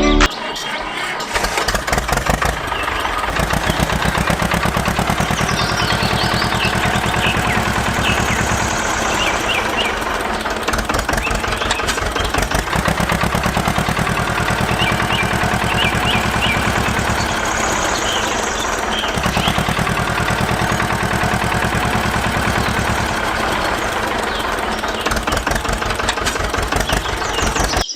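Small engine of a DIY mini tractor running with a rapid, even firing beat, its low drone growing louder and easing back several times as the load changes.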